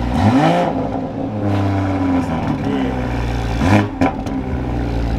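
BMW M340i's B58 turbocharged inline-six idling and revved twice with quick throttle blips, pitch sweeping up and back down each time.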